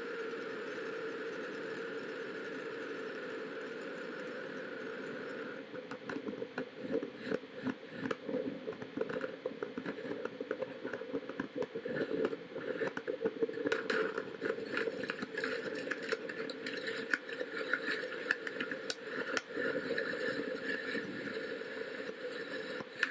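Antares rocket launch noise: a steady rushing sound, turning about five and a half seconds in into an uneven crackling with many sharp spikes. It cuts off abruptly at the end.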